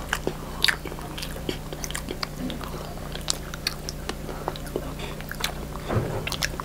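People chewing soft durian cream crepes: irregular wet mouth clicks and smacks, several a second, over a steady low hum.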